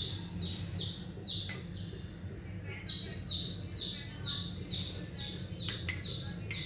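A bird chirping over and over, short high notes falling in pitch about two and a half times a second, over a steady low hum. A couple of light clicks near the end.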